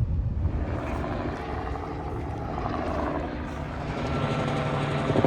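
Helicopter running, a steady engine hum with fast rotor chop that grows louder near the end.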